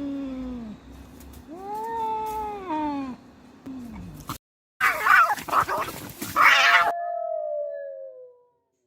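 Domestic cats yowling at each other in a fight: long wavering wails that rise and fall in pitch, then after a brief gap a loud, harsh burst of screeching and hissing, ending in one falling wail.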